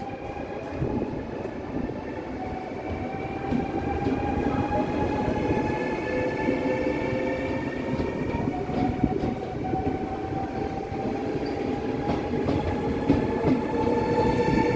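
An electric train gathering speed, its traction motors whining in several tones that climb slowly in pitch over the rumble of the wheels on the rails. The sound grows gradually louder.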